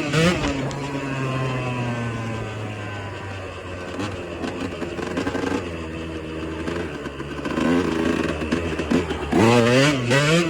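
Motorcycle engine running steadily under way. The throttle is blipped up and down at the start and again near the end, with a steadier drone in between.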